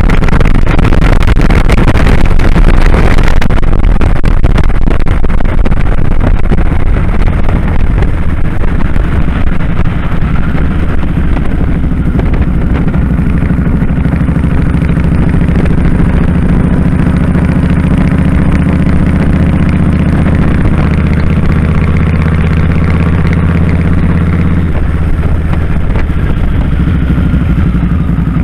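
2001 Kawasaki Drifter 1500's V-twin engine running under way, with heavy wind noise in the first few seconds. The engine note then holds steady at cruise and shifts about 25 seconds in.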